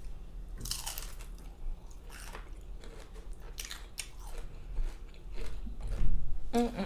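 A person biting and chewing crispy bacon: repeated crisp crunches between softer chewing, the loudest crunch near the end.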